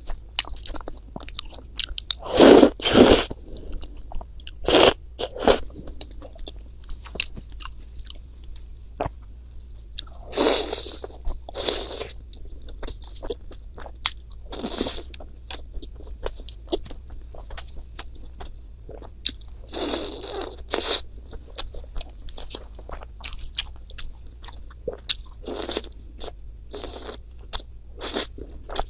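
Close-miked eating: a person chewing and biting food, with loud crunches at uneven intervals and many small mouth clicks between them.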